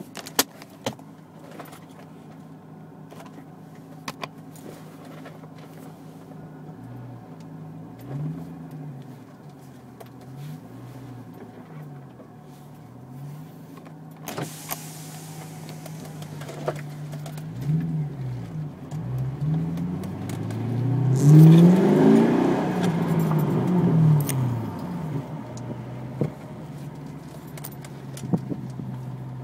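2004 Pontiac GTO's LS1 V8 through an X-pipe and Spintech mufflers, heard from inside the car while cruising at low speed. It runs steadily at low revs and rises and falls a few times through gear changes, revving highest about two-thirds of the way through. A few light clicks and rattles are heard.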